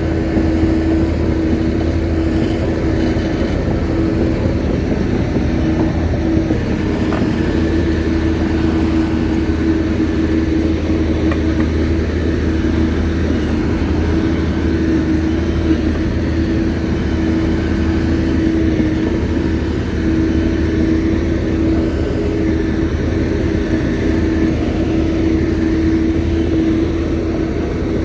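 Shantui bulldozer's diesel engine running at a steady pitch, a constant loud drone.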